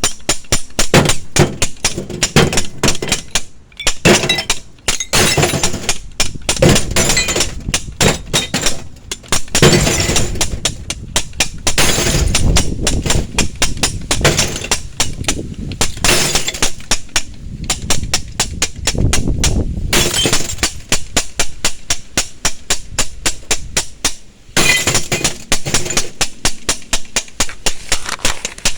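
Rapid, irregular crackling and clicking, many sharp clicks a second piling into a dense static-like rattle, with short lulls about 4 and 24 seconds in. The uploader likens it to glass breaking.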